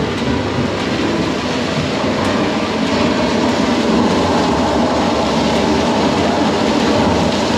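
Steady rushing and splashing of water from an outdoor water-play attraction's streams and fountains.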